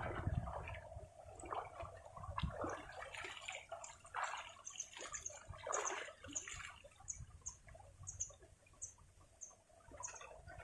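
River water splashing and gurgling in irregular bursts. Through the second half, a short high chirp repeats about twice a second.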